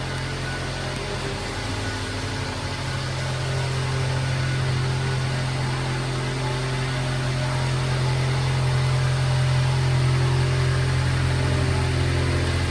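Subaru Sambar kei truck's small four-cylinder engine running steadily with a low hum, growing a little louder about three seconds in.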